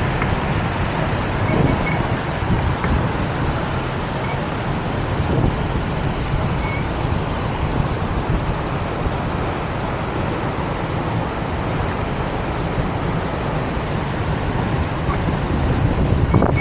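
Steady, loud rush of water from the Ouzoud waterfall.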